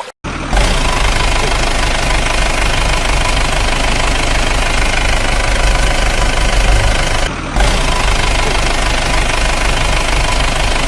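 A vehicle engine running steadily with a rough, pulsing rumble. It starts abruptly about half a second in and cuts out briefly about seven seconds in before carrying on.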